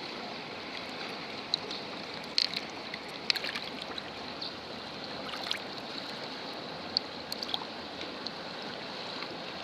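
Stream running steadily, with a few light clicks scattered through it.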